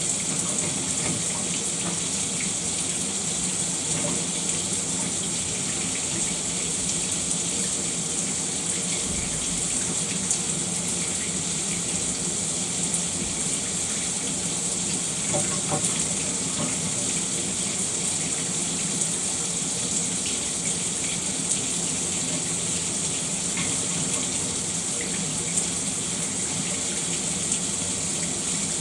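Shower running steadily: water spraying and splashing in a continuous hiss, with a few small splashes standing out.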